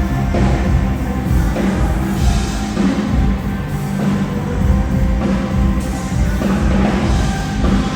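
A live rock band playing loudly, with a pounding drum kit and heavy bass.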